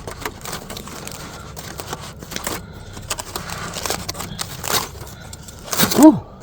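Aluminium foil packet crinkling and rustling as it is handled and opened, with scattered small clicks and crackles.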